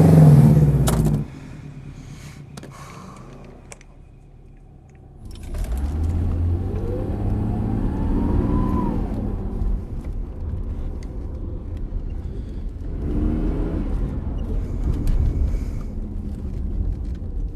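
Car engine accelerating, cut off suddenly about a second in. After a quieter stretch a car runs again from about five seconds, a low rumble with a rising then falling whine near the middle.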